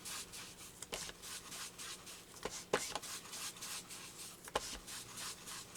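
A playing card being inked, with an ink applicator rubbed over the card in short, scratchy scrubbing strokes. A few light taps sound among the strokes.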